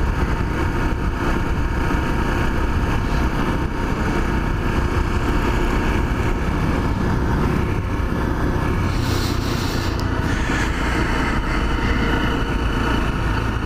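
Honda CRF250L's single-cylinder engine running steadily as the bike is ridden, under a steady rush of wind and road noise.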